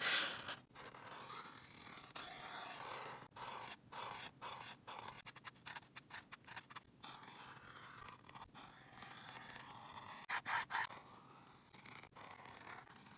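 Drawing on paper: a drawing tip scraping across the paper in short, irregular strokes, with a louder flurry of quick strokes about ten seconds in.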